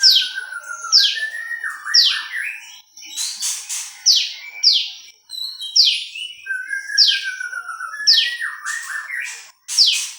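Prenjak lumut (a prinia) singing: loud, sharp notes sweeping downward, repeated about once a second, with a lower wavering warble gliding between them.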